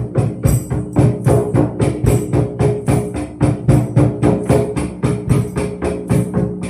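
Tambourine played in a steady, fast rhythm of about five beats a second: the skin thuds and the jingles ring on each stroke. A steady held tone sounds underneath.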